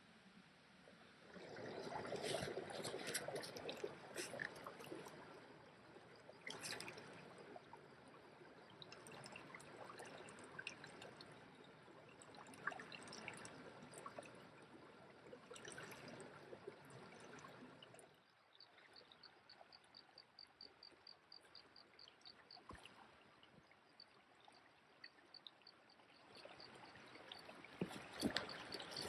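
Faint trickling water of a small stream, with many small splashes and drips. The sound drops suddenly about two-thirds of the way through, after which a fast run of high ticks is heard for a few seconds.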